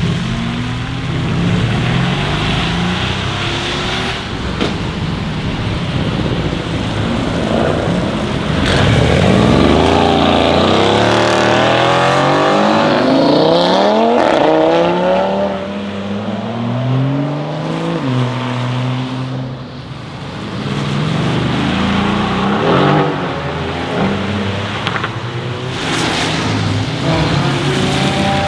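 Mercedes-AMG GT R twin-turbo V8 idling, then accelerating hard, its pitch climbing in several rising sweeps through gear changes in the loudest middle stretch. It then settles back to idle near the end.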